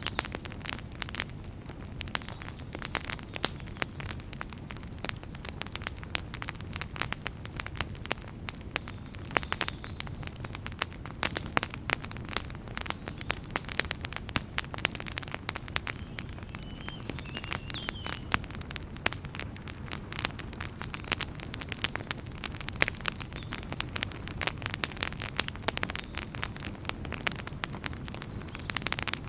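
Wood fire crackling: dense, irregular pops and snaps over a steady low rumble of the flames.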